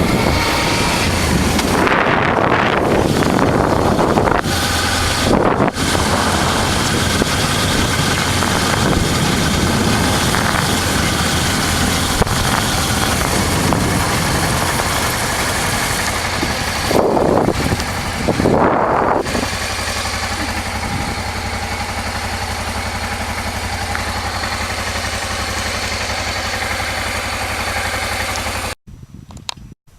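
1988 Honda Transalp's 600 cc V-twin engine running on the move, with wind rushing over the microphone. Two brief louder swells come early and a little past halfway, after which the running goes quieter and steadier until the sound cuts off suddenly near the end.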